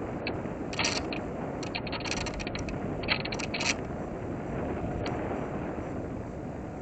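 Airflow rushing over a small electric RC airplane, heard from its onboard camera in flight, with short bursts of higher-pitched mechanical buzzing about three times in the first few seconds.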